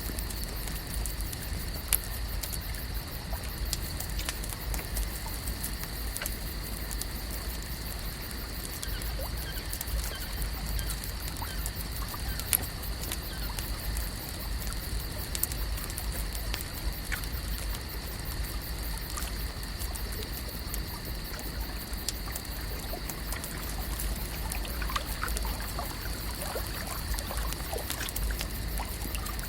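Lake ambience: water trickling and lapping over a low rumble, with a steady high hiss and many small ticks and crackles throughout. A few faint chirps come in near the end.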